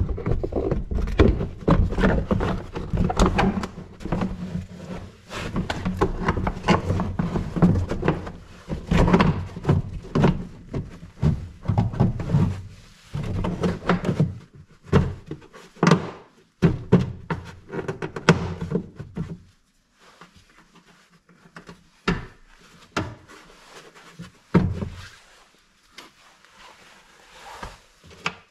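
Irregular thunks, knocks and clicks as a car's protective cover is handled and fitted back in place, busy at first and thinning out to scattered clicks about two-thirds of the way through.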